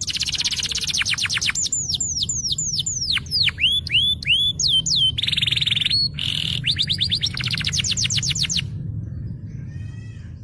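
Canary singing fast tours of repeated down-slurred whistles, with a buzzy trill a little past halfway, then quick rolling trills that stop about nine seconds in. A steady low hum runs underneath.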